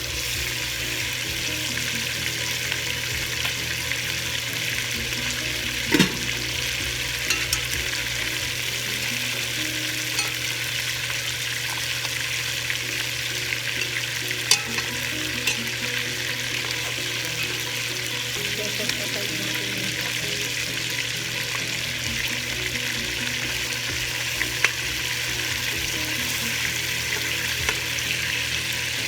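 Chicken leg pieces frying in hot oil, a steady sizzle with a few sharp clicks, the loudest about six seconds in and again near the middle.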